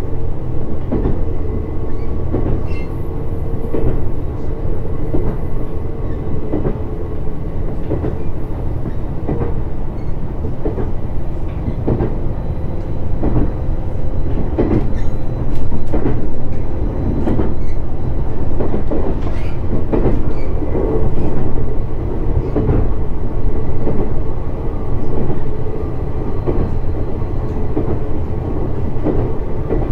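Shinano Railway SR1 series (100 subseries) electric train running between stations. A steady rumble of wheels on rail with a constant hum, broken by irregular clicks and knocks from rail joints.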